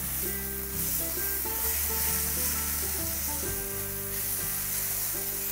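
Mashed roasted eggplant with onion, green chillies and bell peppers sizzling steadily in a nonstick frying pan while being stirred with a spatula, being sautéed for baingan bharta. Soft background music with held notes plays underneath.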